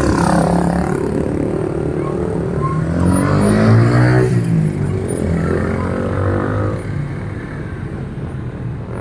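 Motorcycle engines running as bikes ride past. One revs up, loudest about three to four seconds in, then its pitch falls away.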